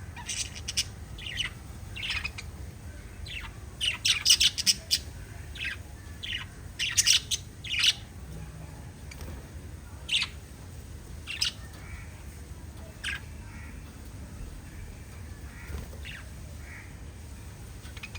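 Small pet parrots chirping and squawking: a dense run of short, sharp, high calls in the first eight seconds, then scattered single chirps, fainter toward the end.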